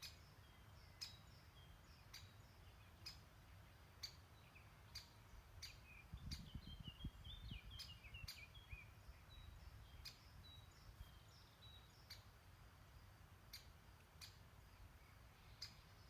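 Faint birdsong: a short run of high chirping notes about six to nine seconds in, over a steady series of sharp ticks roughly once a second. A low rumble rises briefly under the chirping.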